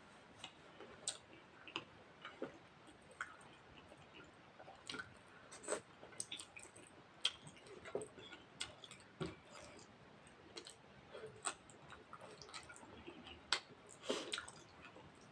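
Close-up eating sounds from chewing a meal of rice and mutton curry: soft, irregular clicks and smacks of the mouth, a few each second.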